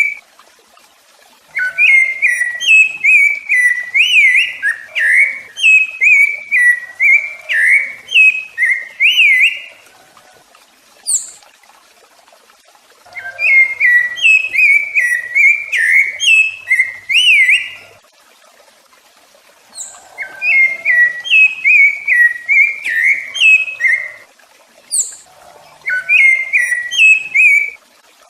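Rufous-bellied thrush (sabiá-laranjeira) singing: four bouts of quick, fluting whistled phrases, each a few seconds long, with short pauses between them and a single high, thin note in one pause.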